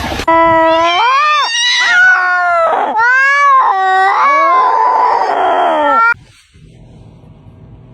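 A cat yowling: a run of long, wavering calls that rise and fall in pitch, cut off suddenly about six seconds in.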